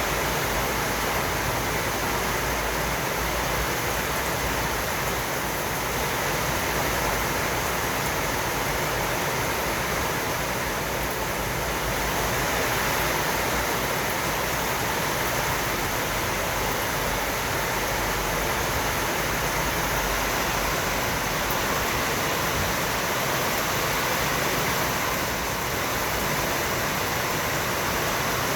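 Heavy rain falling: a steady, even hiss of water.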